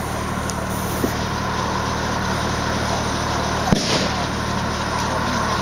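Steady low outdoor rumble with one sharp firework bang a little past halfway.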